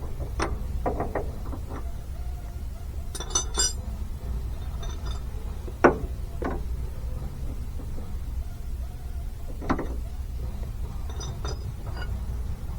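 Hand wrenches clinking and knocking on the metal of a rusty brake master cylinder and its bolts: a few separate sharp taps, with a quick cluster of bright clinks about three and a half seconds in. A steady low hum sits underneath.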